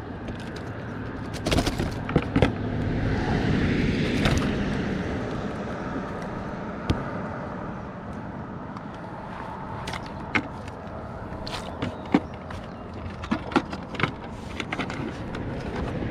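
A scatter of sharp knocks and clicks over a steady rushing noise that swells for a few seconds early on.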